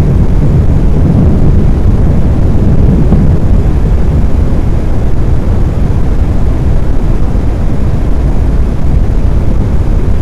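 Loud, steady low rumbling roar with no distinct pitch, heaviest in the deep bass.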